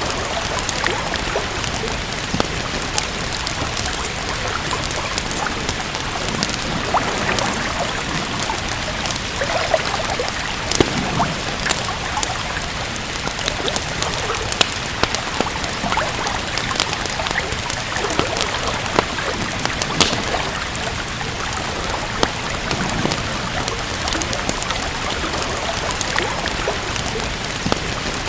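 Steady rainfall hissing, with a wood fire crackling over it in frequent small, sharp pops and snaps.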